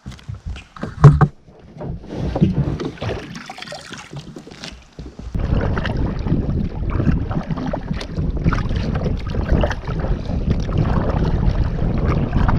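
Kayak being launched and boarded: irregular knocks and splashes, with one loud thump against the hull about a second in. From about five seconds, a steady rushing noise of the kayak moving out on the water.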